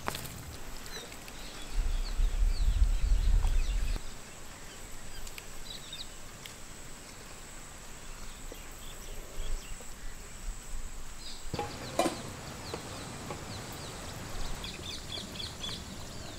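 Outdoor ambience with faint, short bird chirps. A low rumble lasts about two seconds, near the start, and is the loudest sound.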